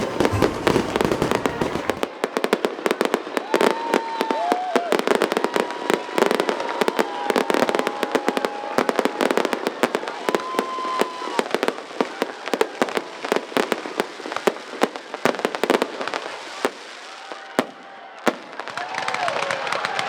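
Fireworks display: a dense run of rapid pops, bangs and crackles, with a few short whistles. It thins out briefly near the end, then picks up again.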